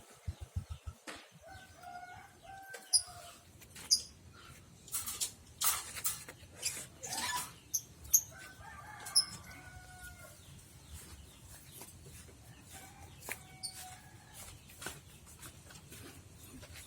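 Chickens clucking and calling, with short sharp high chirps scattered through. An engine's low pulsing fades out about three seconds in.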